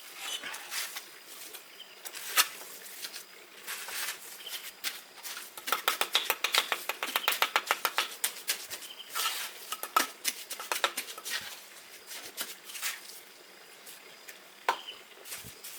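Light tapping and clicking of bricklaying work on the hearth, with a quick run of taps in the middle and scattered single knocks.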